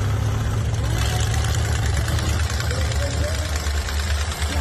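Demolition derby car engine idling with a steady, low, pulsing rumble, with voices faintly in the background.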